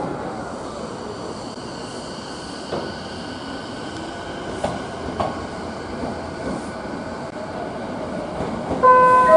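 Electric train running on rails: steady wheel and rail noise with a faint steady whine and a few sharp clicks. Near the end an electronic chime melody starts and is louder than the train.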